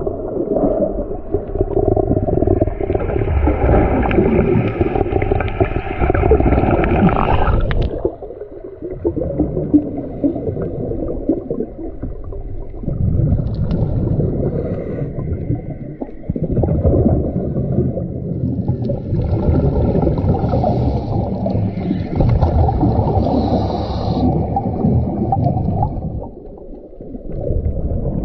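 Muffled rushing and gurgling of water heard underwater. It comes in stretches of a few seconds, with brief quieter breaks between them.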